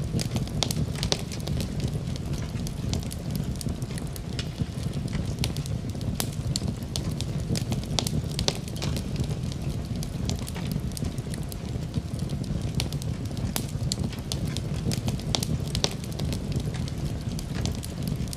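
Wood fire crackling in a fireplace: quick, irregular pops and snaps over a steady low rumble of the flames.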